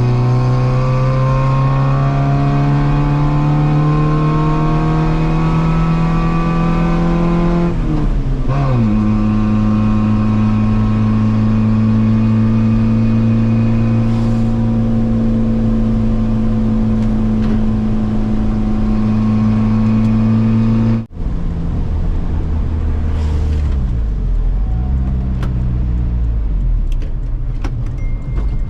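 Yugo's four-cylinder engine running after 10–15 years of sitting, held on the gas pedal: revs climb slowly for about eight seconds, fall back, then hold steady. Near the end it runs lower and more unevenly. It has vacuum leaks and needs the throttle pumped to keep running.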